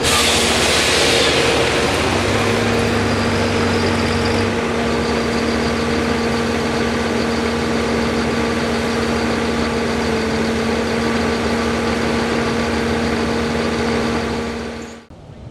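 Engine of a pulling vehicle running flat out at a steady high pitch, with a dense rush of exhaust noise over it. It cuts off abruptly near the end.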